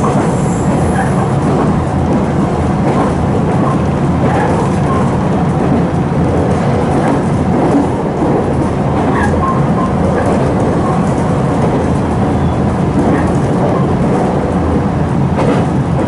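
Steady running noise inside a Nankai 2300 series electric train car as it travels along the line: a continuous rumble of wheels on the rails.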